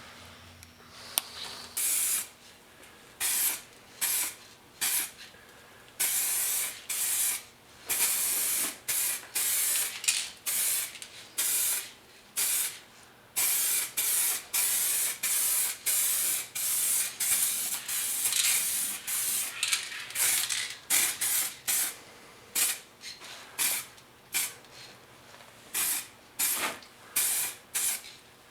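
Aerosol spray can of base-coat paint spraying in many short bursts, each about half a second to a second and a half, with brief pauses between passes as a light coat goes on.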